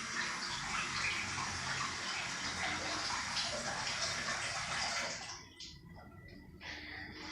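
Tap water running into a basin while hands are washed; the flow is turned off about five seconds in, followed by a few brief rustles.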